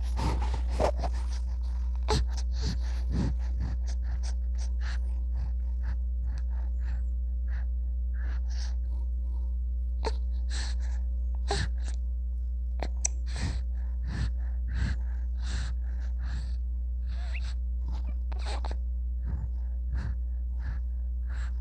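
A newborn baby's short, irregular gasping breaths and snuffles over a steady low hum.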